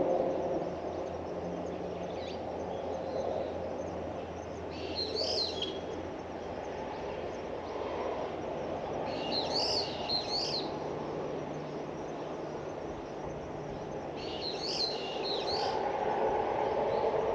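A bird calling in three short bouts of chirps, each about a second long and about five seconds apart, over a steady low background rumble.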